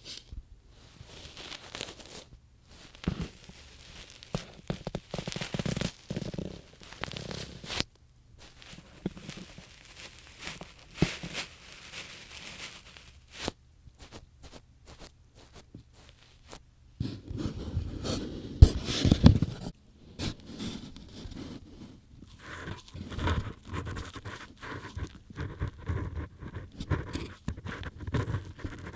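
Ear-cleaning sounds on an ASMR microphone: an ear-cleaning tool scraping and rustling in irregular strokes. A louder, deeper rubbing comes just past the middle, then quicker, finer scratching.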